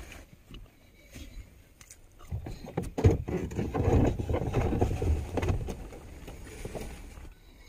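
A vehicle's engine rumble that swells about two seconds in, with a sharp knock near its start, stays loud for a few seconds, then fades away.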